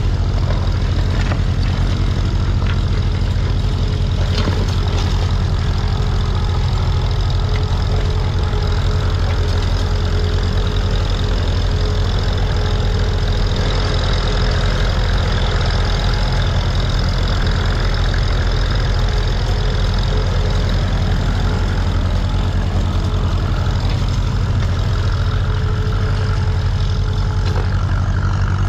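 Tractor engine running at a steady, low, even note, with no change in speed.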